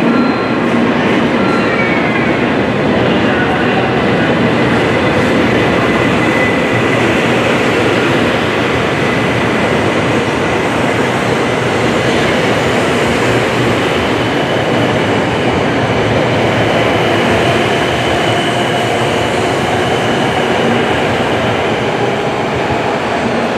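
Shinkansen 923 series 'Doctor Yellow' test train pulling slowly into a station platform, a steady rumble of wheels and running gear with a thin high whine over it.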